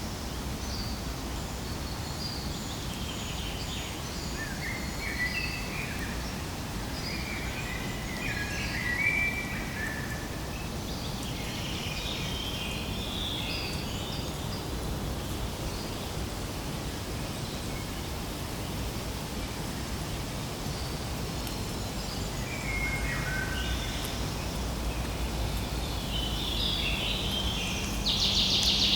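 Several birds chirping in short, quick clusters of high calls over a steady low background rumble. The calls thin out in the middle and grow loudest near the end.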